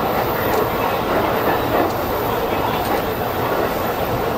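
JR East E233-1000 series electric train running, a steady rumble of wheels on rails heard from inside the lead car.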